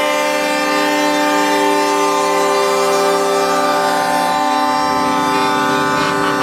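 Several truck air horns blaring together in one continuous chord, the mix of notes changing about four and a half seconds in as some horns drop out and others come in.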